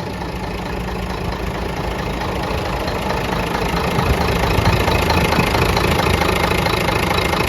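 Diesel engine of a Scania P124-360 mixer truck running steadily, getting gradually louder over the first few seconds and then holding.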